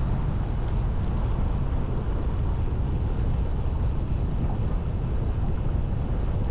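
Wind buffeting the microphone of a camera riding along on a moving bicycle: a steady low rumble with no distinct events.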